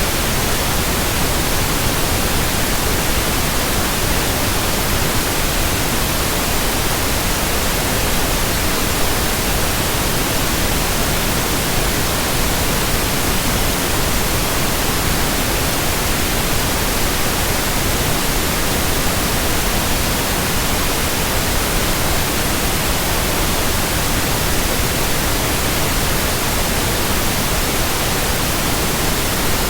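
Steady, unbroken white-noise hiss spread evenly from deep to high pitches, with no rhythm, swish or change.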